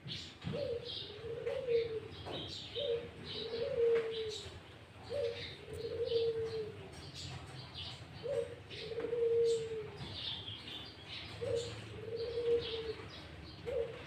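A dove cooing over and over, each call a short note followed by a longer drawn-out one, about five times, with fainter high chirps from small songbirds behind it.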